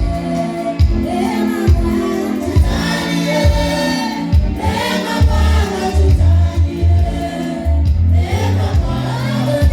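Gospel worship music: a group of voices singing together over a steady beat, with strikes a little under a second apart, and a deep bass line that grows stronger about halfway through.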